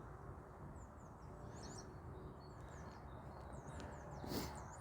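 Small birds chirping over a steady low background rumble, with a brief rush of noise near the end.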